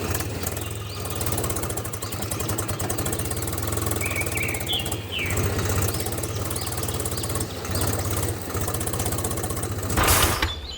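Small engine of a DIY miniature tractor running steadily with a fast, even chugging beat, a few bird chirps faintly over it about four to five seconds in. A short burst of noise comes near the end.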